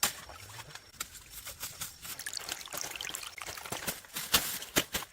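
Water trickling and splashing, broken by many short clicks and splashes that are loudest near the end.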